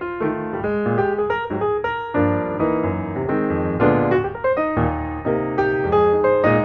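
Piano music, with notes struck several times a second and chords ringing over one another.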